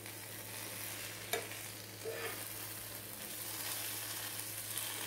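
Sliced potatoes coated in spice powders sizzling in oil in a nonstick frying pan while a spatula stirs them, with a sharp click of the spatula against the pan about a second and a half in.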